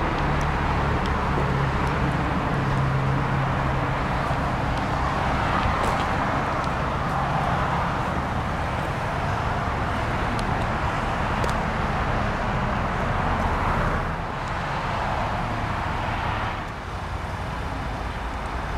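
Mercedes-Benz E320's 3.2-litre V6 idling steadily, a low even hum heard from outside the car, growing a little fainter over the last few seconds.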